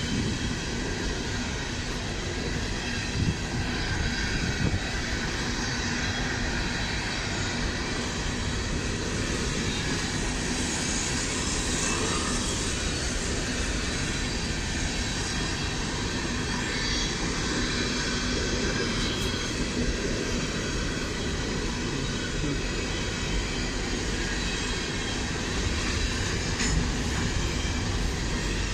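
Freight train of CSX open-top hopper cars rolling past at a grade crossing: a steady rumble and clatter of steel wheels on the rails, with a few sharper knocks.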